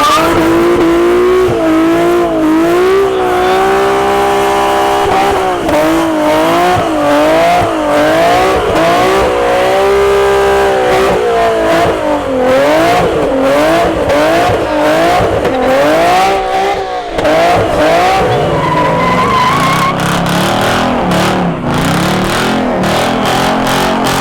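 A car doing a burnout: its engine revving hard, pitch rising and falling again and again, over squealing tyres.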